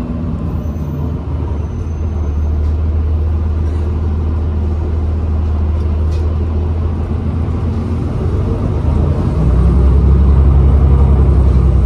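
Inside a 2012 New Flyer XDE40 diesel-electric hybrid bus, its drivetrain running with a steady low rumble that grows louder about nine seconds in.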